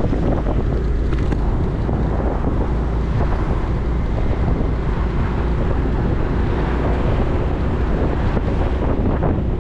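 Wind buffeting the microphone while riding a motorcycle, with the bike's engine running steadily underneath.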